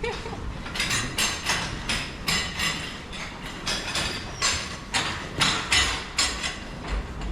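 Hay being forked or shovelled out to feeding cattle: a run of irregular scraping, rustling knocks, about two a second.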